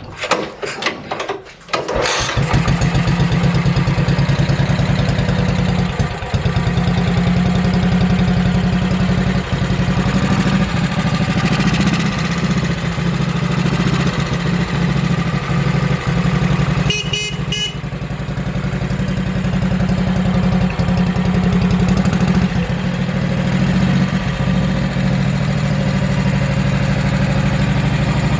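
A 1971 Moto Guzzi Nuovo Falcone's 500 cc single-cylinder engine being cold-started: a few clicks and knocks, then it catches about two seconds in and settles into a steady, even idle. A brief high beep sounds about seventeen seconds in.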